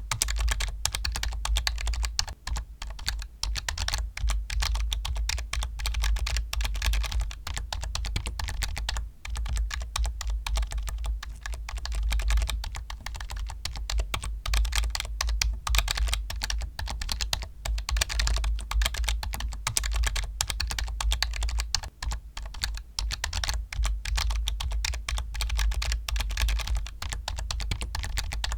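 Fast, continuous typing on a computer keyboard: a dense stream of key clicks with a low thud under the keystrokes.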